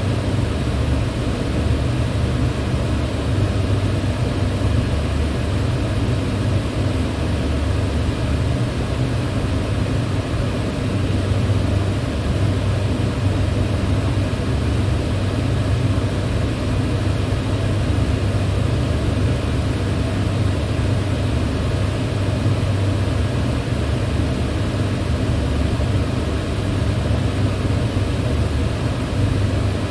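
Electric fan running steadily: an even rush of air over a low motor hum, unchanging throughout.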